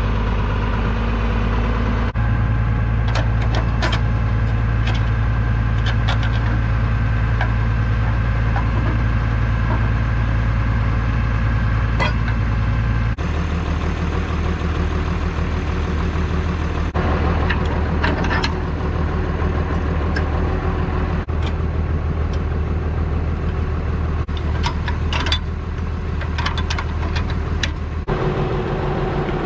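International Harvester 1086 tractor's six-cylinder turbo-diesel running steadily. Its note shifts a few times, dropping lower about halfway through and rising again near the end, with scattered short sharp clicks over it.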